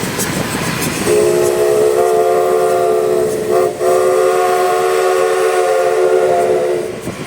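Steam locomotive's chime whistle sounding a chord of several notes in two long blasts, with a short break in the middle, over the noise of the train running.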